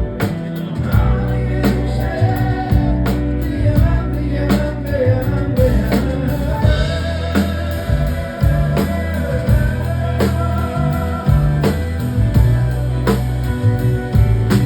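Live rock band playing an instrumental passage: a drum kit keeps a steady beat under a bass line while a melodic lead line wavers above.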